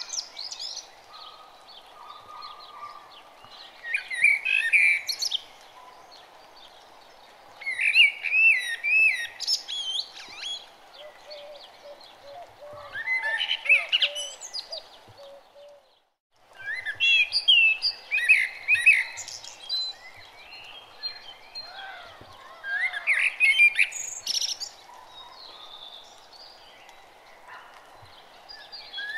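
Birdsong: bursts of quick, warbling chirps every few seconds over a steady faint background noise. The sound drops out briefly about halfway through.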